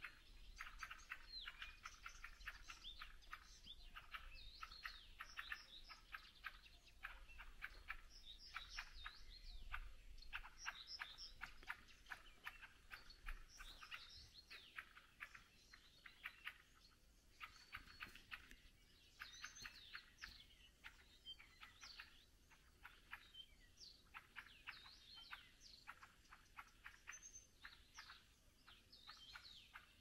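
Songbirds chirping and singing in a faint, continuous chorus of quick, high notes and short trills.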